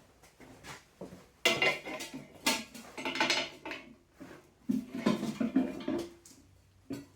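Heavy 3/16-inch steel plate, scored halfway through along its bend lines, clanking and scraping as it is bent and handled. The metal clatters in three spells of about a second each, with a short knock near the end.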